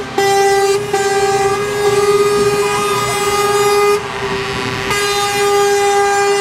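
Truck air horns sounding in long, nearly unbroken blasts on one steady pitch, with short breaks about a second in and around four seconds in.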